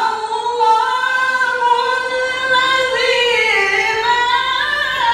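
Melodic Quran recitation (tilawah) by a male qari, one long phrase held on high sustained notes. The pitch steps and bends slowly in ornamented melisma, with no breaks for breath.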